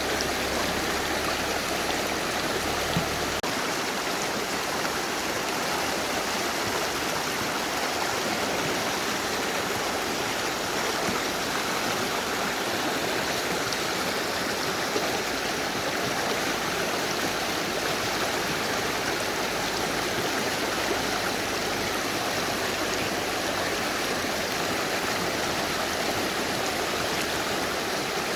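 Mountain river rushing over rocks: a steady, even water noise.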